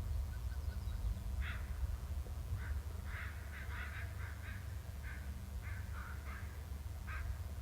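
Birds calling back and forth: a single sharp call note, then a quick chattering run of calls, then one more note near the end. A steady low rumble of wind or hum runs underneath.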